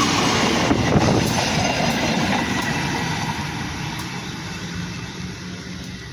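Train running past on the rails, its wheels rumbling with a few sharp clacks over the rail joints early on, the noise fading steadily as it moves away.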